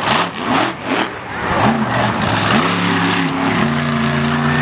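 Monster truck engine revved in a few quick throttle blips, then held at steady high revs twice with a brief drop between.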